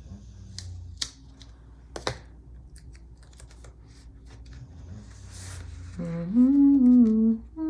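Small light clicks and taps of paper and stickers being handled, then about six seconds in a woman hums a short wavering tune, the loudest sound here.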